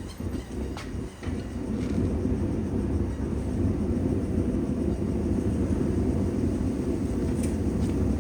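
Low, steady rumble of wind buffeting the microphone, setting in about a second in, with a couple of faint clicks before it.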